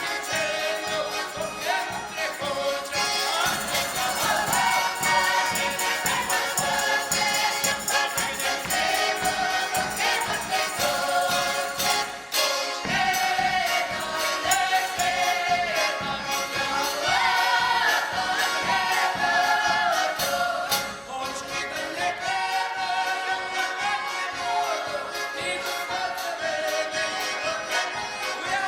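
A folk ensemble singing a Ukrainian folk song in several voices, over a steady jingling percussion beat. The singing breaks off briefly twice between phrases.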